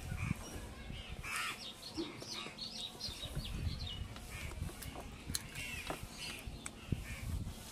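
Crows cawing, a run of calls between about one and three seconds in, with higher bird chirps mixed in.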